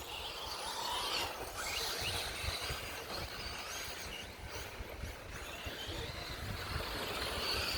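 Electric 1/10 scale 2wd short course RC trucks racing on a clay track: faint motor whines rise and fall as the trucks pass, over a steady rush of outdoor noise.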